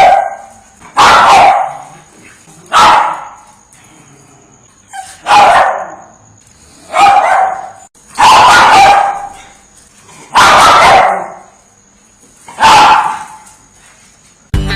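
A Chihuahua barking: about eight separate loud barks, one to two seconds apart.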